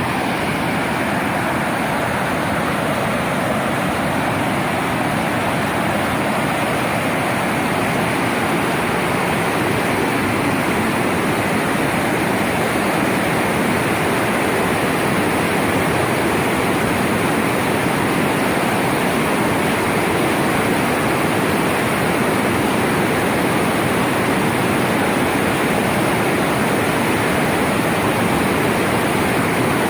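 Floodwater rushing in a steady, even torrent.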